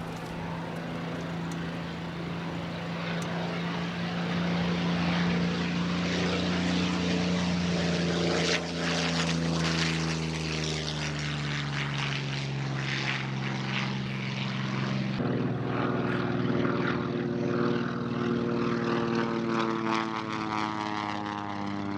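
Propeller-driven piston-engine warbird making a low pass, its engine drone steady and then dropping in pitch as it goes by. An abrupt jump in the sound about fifteen seconds in is followed by another falling-pitch pass.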